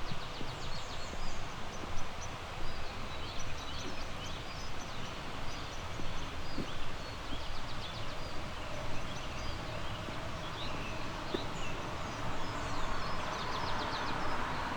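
Several small songbirds chirping and trilling, with short calls coming one after another, over a steady background hiss. The hiss swells into a louder rush near the end.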